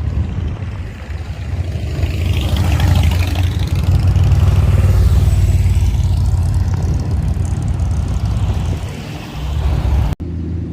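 Motor vehicle engine running close by with a deep, low note. It grows louder about two seconds in and eases off again near the end.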